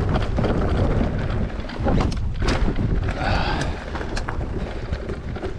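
Wind buffeting the microphone over the rumble of an electric mountain bike riding down a wet, rooty trail, with sharp clicks and rattles as the bike hits roots and a couple of brief hissing swishes around the middle.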